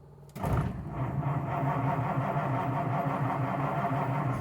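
Cold start of a 1953 Ford's flathead V8 on the choke after sitting six days: the starter kicks in suddenly about a third of a second in and cranks the engine with an even rhythmic churn, the engine beginning to catch near the end.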